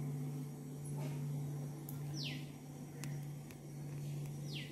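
A bird calling twice, each call a quick high note sliding down in pitch, over a steady low hum.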